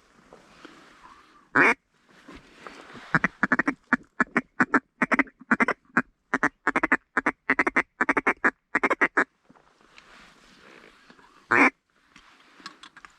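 A hand-blown waterfowl call sounded close by: one loud note, then a fast even run of about two dozen short calls lasting some six seconds, then another single loud note near the end, calling to a circling bird.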